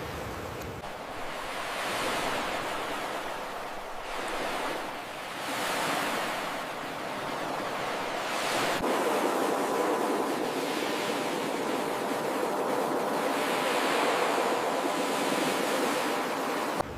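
Ocean surf: waves breaking and washing up the shore in slow, repeated swells of rushing water.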